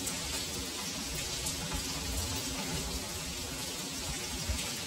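Heavy rain falling steadily on a wet paved alley: a dense, even hiss, with irregular low thumps underneath.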